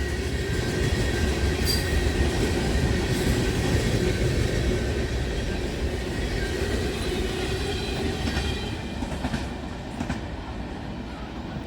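Freight train cars rolling past on the rails: a steady rumble of wheels on track, with a faint high wheel squeal. It fades away in the last couple of seconds as the end of the train recedes.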